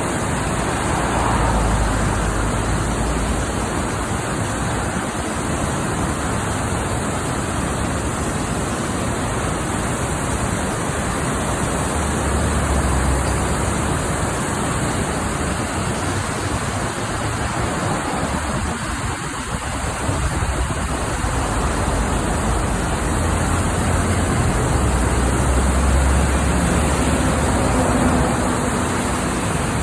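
Fast-moving floodwater rushing steadily, with low rumbles coming and going underneath.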